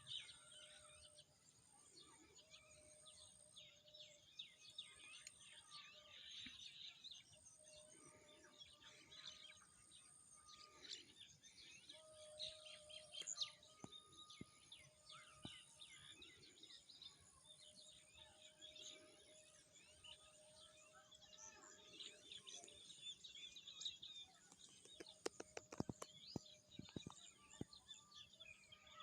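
Faint chorus of many birds chirping and calling over each other, with a lower held note that recurs every few seconds and a quick run of clicks near the end.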